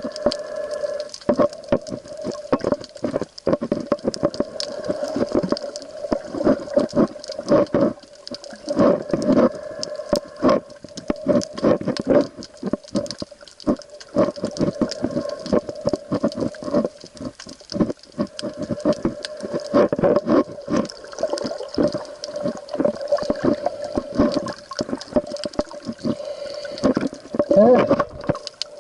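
Sea water moving around the camera, with a dense run of irregular clicks and knocks over a steady hum.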